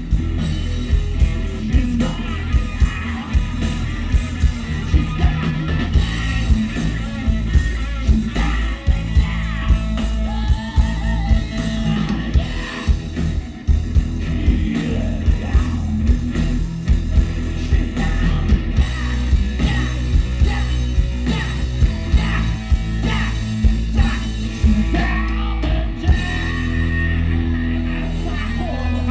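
Live rock band playing: a drum kit keeping a steady beat under bass and electric guitar, with a singing voice.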